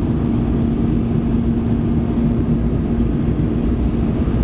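Steady cabin noise of an Airbus A320 jet airliner in flight: a loud, even rush of engine and airflow noise, mostly deep, with a steady low hum running through it.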